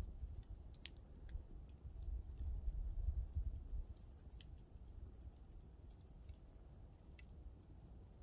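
Wood campfire crackling, with scattered sharp snaps and pops over an uneven low rumble.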